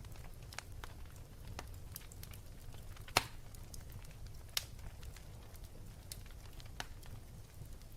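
Wood fire burning with a steady low rumble and scattered crackles, with a sharp pop about three seconds in and another about a second and a half later.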